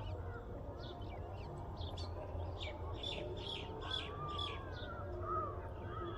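Several birds calling and chirping outdoors, with a quick run of high chirps a few seconds in and lower, arching calls toward the end, over a steady low background hum.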